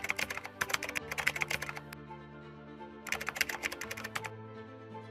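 Camera shutter firing in two rapid bursts, the first lasting about two seconds and the second about a second, over background music.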